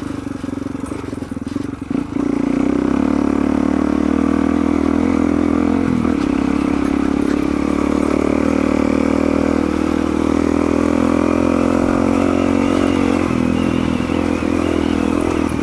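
Suzuki DR-Z400's single-cylinder four-stroke engine running under way. It opens up about two seconds in and then holds a steady, higher speed.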